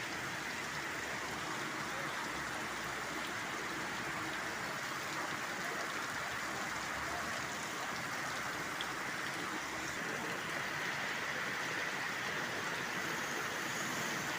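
Heavy monsoon rain falling in a steady downpour, an even hiss without a break.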